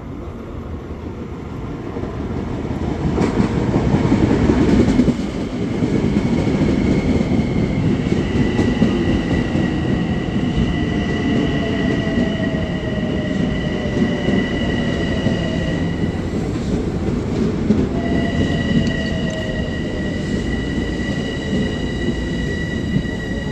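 Long Island Rail Road train passing close by: a heavy rumble that builds to its loudest about five seconds in, then runs on steadily. A steady high-pitched whine or squeal comes in about eight seconds in, breaks off briefly about halfway through, and returns.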